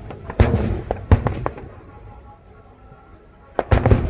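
Aerial fireworks shells bursting: a loud bang about half a second in, a quick run of bangs a little after one second, and a tight cluster of bangs near the end, each followed by a rumbling echo.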